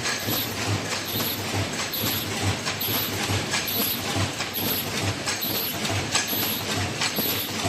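Face-mask making machine running: a steady mechanical clatter of clicks with a cycle that repeats a little faster than once a second.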